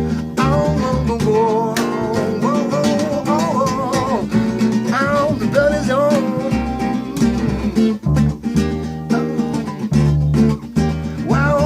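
Acoustic guitar music: strummed chords with a melody line weaving over them.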